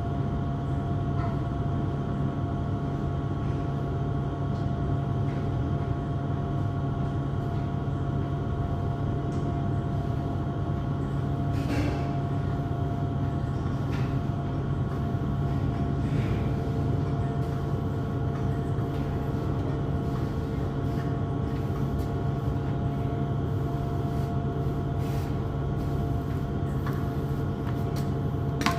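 A steady mechanical hum with a low drone and a few thin steady tones above it, broken by a few faint clicks.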